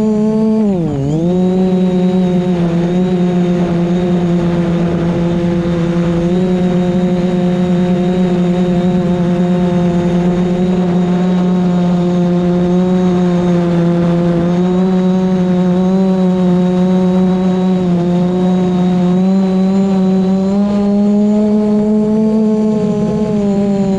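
DJI Mavic Pro drone's propellers and motors whirring in a loud, steady pitched hum, dipping in pitch about a second in and then holding, rising slightly near the end, over the rumble of strong wind.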